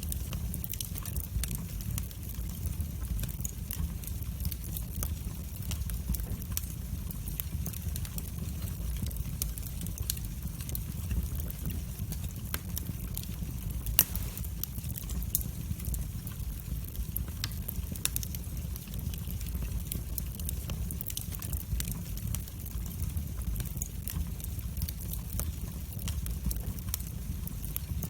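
Fire burning in a fireplace: a steady low rumble of flames with constant scattered crackles, and one louder pop about halfway through.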